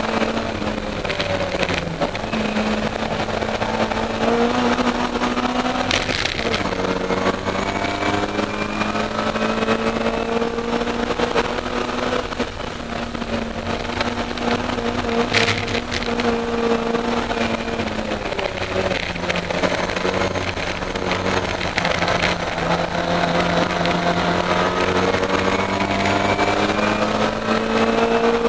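Austin Mini Cooper race car's BMC A-series four-cylinder engine running hard under racing load, heard from inside the cabin. The engine note climbs slowly and drops back several times. Two brief sharp clicks come about six seconds in and about fifteen seconds in.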